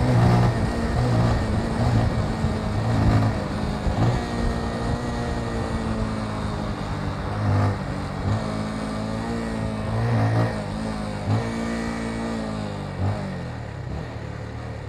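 Motorcycle engine accelerating, its pitch climbing and dropping back several times as it pulls through the gears, over steady wind and road noise.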